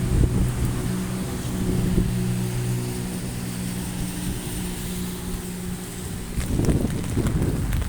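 A motor vehicle's engine hums low and steady, fading away after about four seconds, over the steady hiss of heavy rain. A louder low rush swells near the end.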